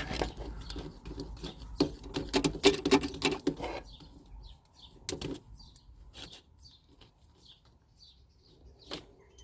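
Handling noise from work on the van's wiring: a close run of rustles and clicks in the first few seconds, then a few scattered clicks and faint high chirps.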